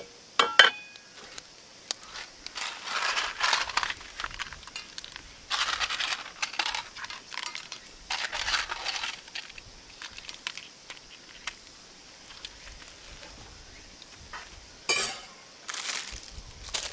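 Camp cookware being handled: a sharp metallic clink with a short ring about half a second in, then several second-long bursts of scraping or rustling, and a sharp knock near the end.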